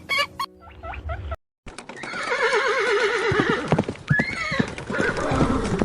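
An animal's long, rapidly quavering call, followed by a short rising-and-falling cry, over many sharp irregular clicks. It starts after a brief cut to silence.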